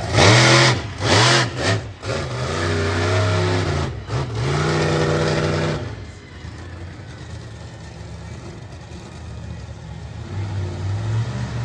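War Wizard monster truck's engine revving hard in repeated rising and falling bursts, then dropping to a lower, steadier running sound about six seconds in.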